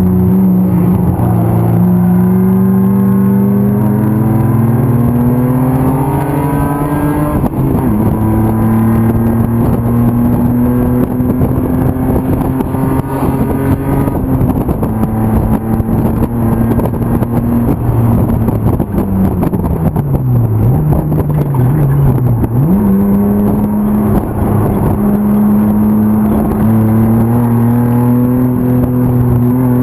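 E36 BMW 325 race car's M50 inline-six under hard throttle. The revs climb, drop at a gear change about seven seconds in and hold steady. Around eighteen seconds in they fall away as the driver lifts and downshifts, then climb again from about twenty-two seconds.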